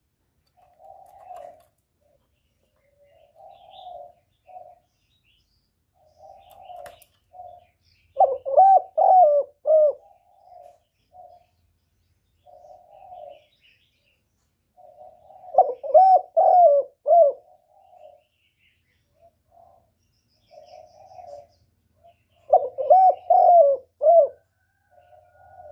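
Spotted dove cooing: short soft coos every second or two, broken about every seven seconds by a loud phrase of several rolling coos lasting about two seconds, three times in all.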